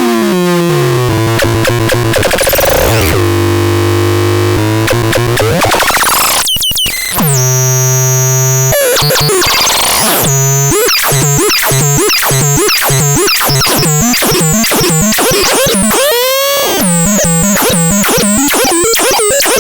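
Electronic synthesizer making harsh, buzzy tones: a pitch sweeping down, then held drones, then from about ten seconds in a fast warble of repeating up-and-down pitch sweeps.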